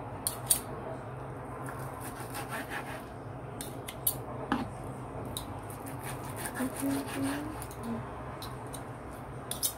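Cooked chicken thighs being cut into pieces on a cutting board: irregular clicks and taps of the blade against the board, over a steady low hum.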